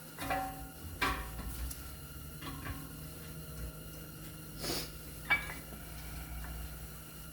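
Several light metallic clinks and clicks as steel brake parts are handled and fitted into the caliper bracket, the sharpest about five seconds in, over a steady low hum.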